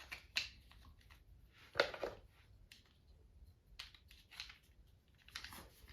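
Wooden jigsaw puzzle pieces being handled and set in place: a scatter of faint light clicks and taps, the loudest about two seconds in.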